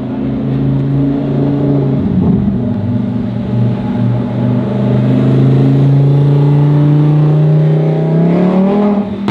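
Supercar engine running loud and steady at low revs, its pitch creeping up, then climbing more quickly near the end as it pulls away.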